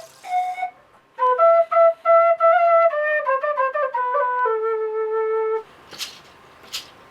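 A flute playing a slow melody of short notes that steps down and settles on a long held low note, which stops about five and a half seconds in. Then come a few brief breathy hisses.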